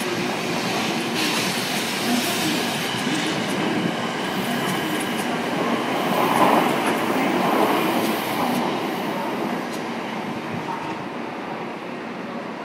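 A Tokaido Shinkansen train moving slowly along the platform. Its running noise swells to a peak around the middle and eases off toward the end.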